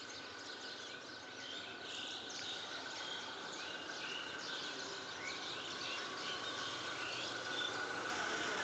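Many small birds chirping at once, short high calls overlapping over a steady outdoor background hiss.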